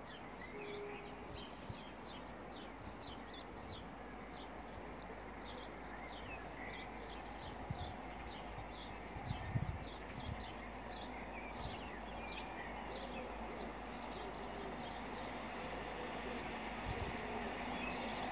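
Small birds chirping in quick, short high notes, two or three a second, over a faint low rumble that slowly grows louder toward the end as a distant train draws nearer. A few soft low bumps come about halfway through.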